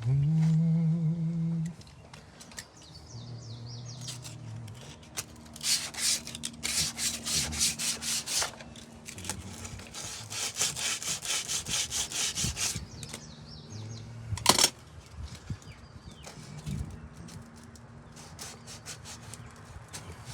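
Hand sanding or rasping of Bondo body filler on wooden brick mold: quick back-and-forth strokes in two runs of a few seconds each, with a single sharp knock a few seconds from the end.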